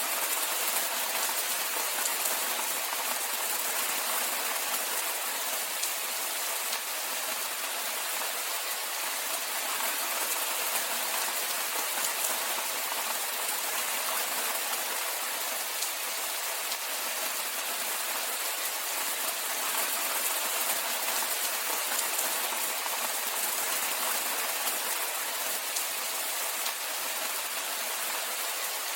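Steady rainfall: a dense, even patter of rain falling on a surface, with no change in strength.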